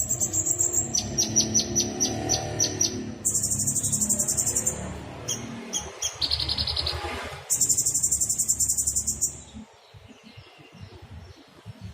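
Songbird masteran calls: rough, very high rattling trills in bursts of one to two seconds, a run of about seven sharp repeated notes, and a lower buzzy phrase. A low rumble lies under them and drops away about ten seconds in.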